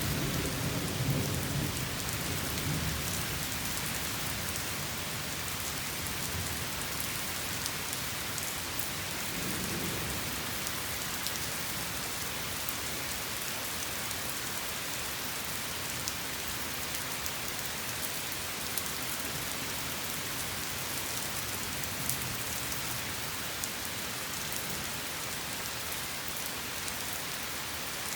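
Steady heavy rain falling on surfaces, a constant hiss, with low thunder rumbling in the first few seconds and again about ten seconds in.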